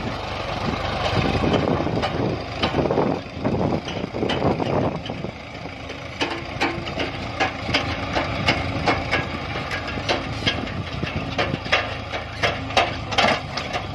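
Diesel engine running steadily at idle, with repeated sharp knocks and clatter over it in the second half.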